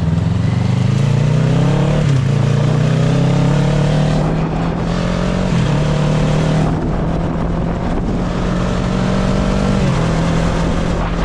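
Motorcycle engine accelerating through the gears: its note climbs, then drops at each of three shifts.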